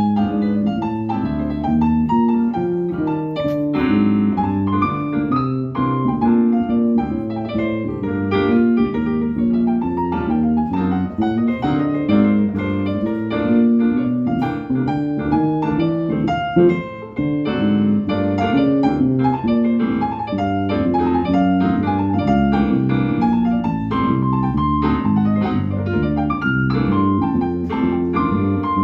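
Live piano playing an instrumental passage of the song, with no singing, the melody moving over low notes beneath.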